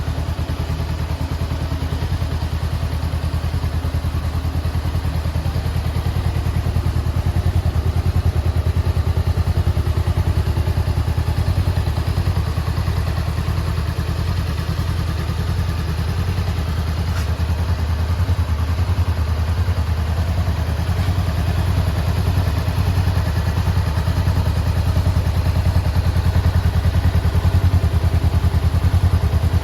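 Honda 400X's liquid-cooled 399 cc parallel-twin engine idling steadily, a low even pulse with no revs.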